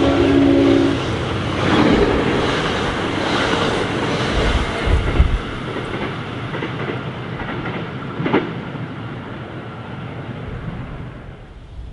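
A passing train. The end of its horn blast cuts off about a second in, followed by the rumble and clatter of the train going by, which slowly fades toward the end.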